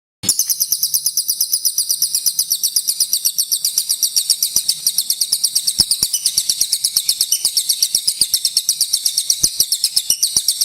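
A small songbird singing one long, fast, high-pitched trill of about ten notes a second, starting about a quarter second in. It is the rolling song that bird-keepers play as a master track to teach a caged white-rumped shama.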